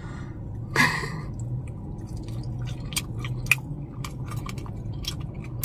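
Close-miked chewing of a charred barbecue burnt end: a bite about a second in, then steady chewing with many small crunches and wet mouth clicks. The crunch comes from the charred, tough edges of the meat.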